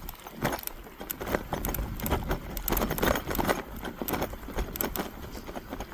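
Jasion EB5 Plus e-bike riding over a snow-covered trail: an irregular run of crunches, clicks and knocks from the tyres in the snow and the bike rattling over bumps, over a low rumble of wind on the microphone.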